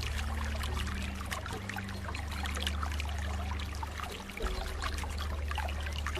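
Water running and trickling, with many small splashes, over soft light background music of low held notes that shift pitch every second or two.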